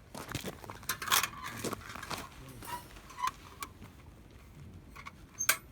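Scattered knocks, clicks and light rattles of objects being handled, the loudest about a second in and just before the end, with two short ringing clinks in the middle.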